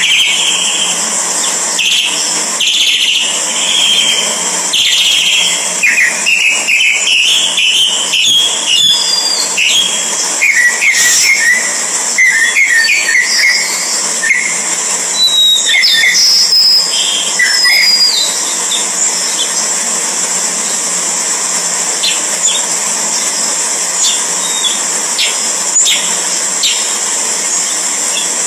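Birds chirping with short rising and falling calls, thick for the first two-thirds, then thinning to a few scattered ticks, over a steady high-pitched hiss.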